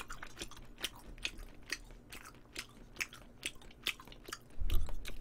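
A person chewing mouthfuls of galbijjim (braised short ribs) close to the microphone: small wet mouth clicks and smacks, about three a second, with a low thump near the end.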